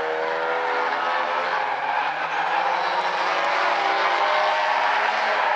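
Several Stinger 8 race cars running together on the figure-eight track, their engine notes rising and falling and overlapping as they rev through the corners.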